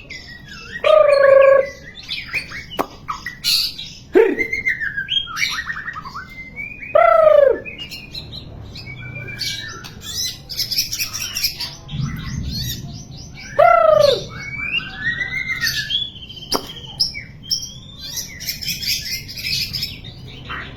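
White-rumped shama (murai batu) singing a long, varied song of clear whistles and fast high trills. Three loud, lower whistled notes stand out: about a second in, near seven seconds and near fourteen seconds.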